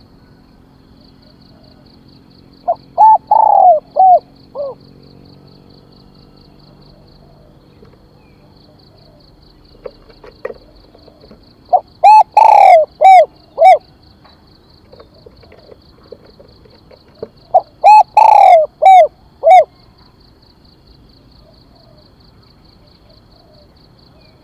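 Spotted dove cooing: three loud phrases of several short coos each, about three, twelve and eighteen seconds in, the kind of call used to excite decoy doves.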